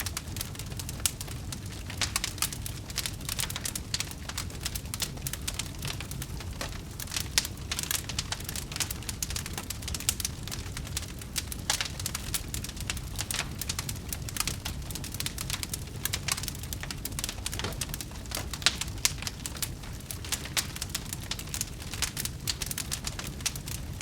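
Wood fire crackling: a dense stream of small clicks and pops, a few sharper than the rest, over a low steady rumble.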